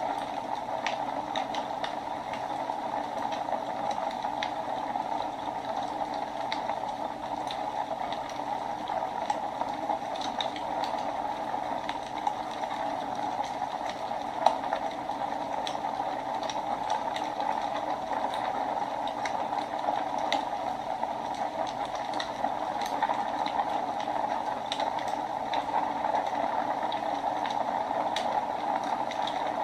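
Wood fire burning in a fireplace: a steady hiss with frequent small crackles and one sharper pop about halfway through.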